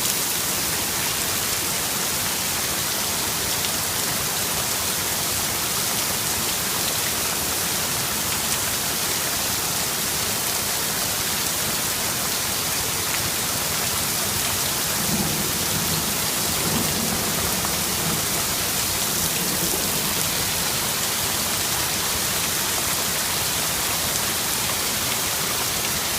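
Heavy rain with hail, a steady loud hiss; about fifteen seconds in a low rumble of thunder rises under it and lasts a few seconds.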